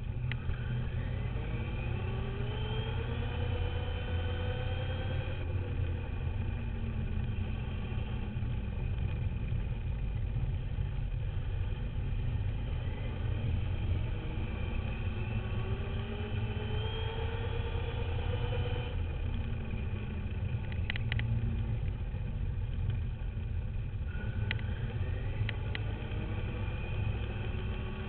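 Duratrax radio-controlled dirt bike's motor whining up in pitch as it accelerates, four times over several seconds each, under a constant low rumble. A few brief clicks come near the end.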